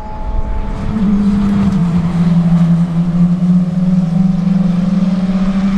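A performance car's engine and exhaust holding a loud, steady note from about a second in, dipping slightly in pitch shortly after, then staying nearly level.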